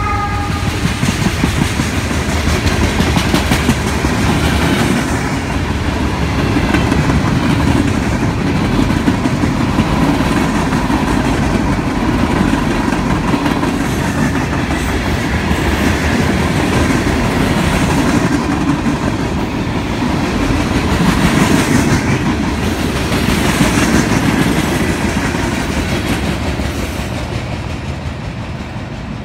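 Freight train cars rolling past close by, their wheels clacking steadily over the rail joints with a rumbling roar of steel on steel. The sound fades over the last few seconds as the end of the train pulls away.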